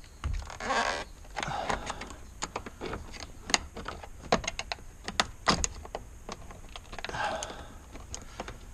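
Irregular small clicks and taps of a tool probing inside a steering wheel for the airbag's release spring, with short scraping rustles about a second in and near the end.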